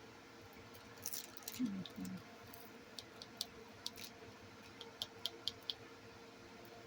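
Small light clicks and taps of diamond painting drills being handled in the tray and placed with the drill pen: scattered clicks, then four quick clicks about five seconds in.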